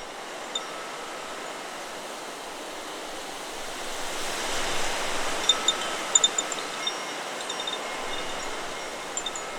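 Wind rushing through forest trees, swelling to a gust about halfway through. Under it the metal tubes of a Chakra Chimes 'Solar Plexus' wind chime ring faintly, and a flurry of short high pips comes at the peak of the gust.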